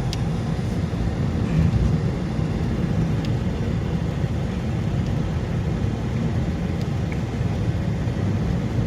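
Steady road and engine noise of a moving car heard from inside the cabin: a low, even rumble.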